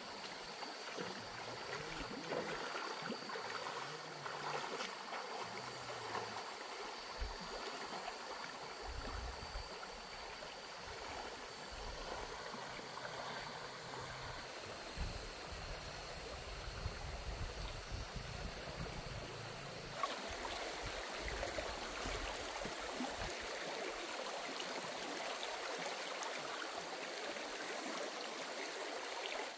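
Steady rushing noise of running water, like a small stream, with a thin high steady tone over it.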